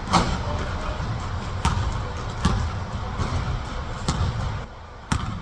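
A basketball bouncing on a hard court: about five sharp bounces at uneven spacing, the first the loudest. A steady low background noise runs underneath and drops about three-quarters of the way through.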